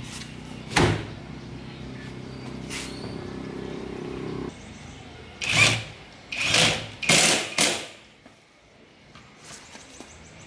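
A small motor hums steadily and cuts off about four and a half seconds in, then a few sharp knocks and clatters follow close together.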